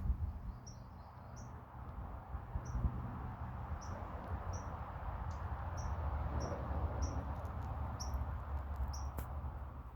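Short, high chirps from a small animal, repeating every half second to a second, over a low, uneven rumble.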